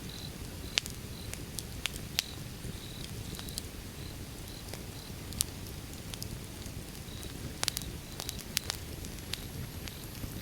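Wood fire burning: a steady low rumble of flames with scattered sharp crackles and pops from the logs, several in quick succession about three-quarters of the way through.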